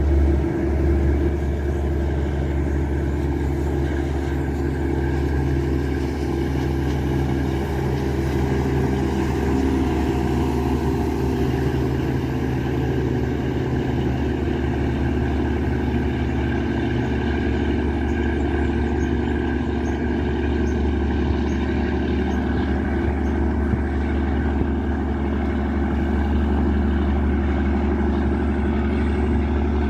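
Yanmar marine diesel engine of a river passenger ship running steadily under way, a constant deep drone with a low hum.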